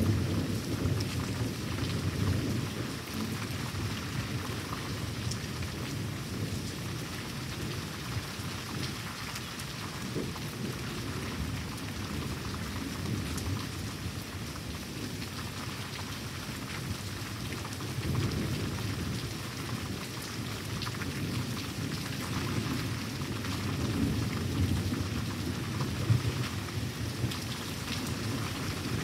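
Steady rain with rolling thunder rumbling through it, the rumbles swelling a few times, loudest near the start and about three quarters of the way through.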